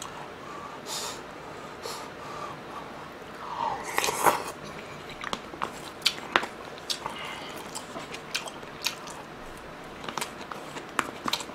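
Close-miked eating sounds: a man chewing spoonfuls of kimchi from kimchi stew with rice, with many short wet smacking clicks. A louder, noisier burst of mouth sound comes about four seconds in.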